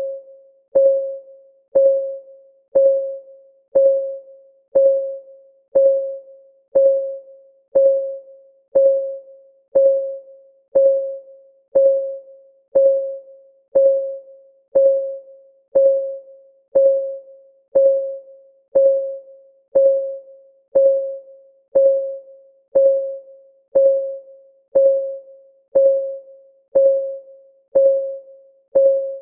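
Clock-ticking sound effect of a countdown timer: one short, pitched tick every second, each dying away quickly, in an even unbroken rhythm.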